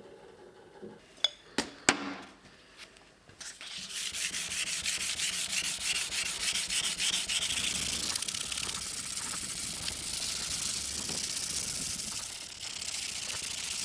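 Hand sanding: quick back-and-forth abrasive strokes with a steady rasping hiss, starting about three and a half seconds in after a few light clicks and easing off near the end.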